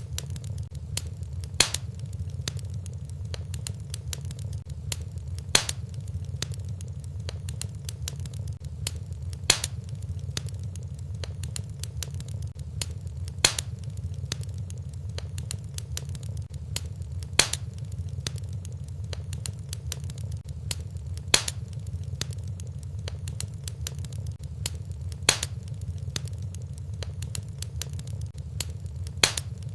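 Wood fire burning in a fireplace: a steady low rumble with constant faint crackling and a louder sharp pop about every four seconds, evenly spaced as in a looped recording.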